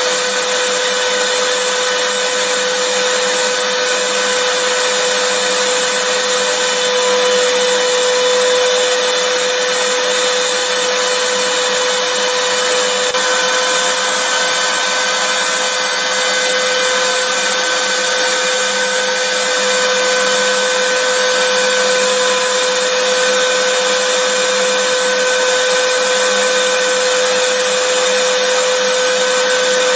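Vacuum cleaner running steadily, its motor giving a constant whine over a hiss of rushing air.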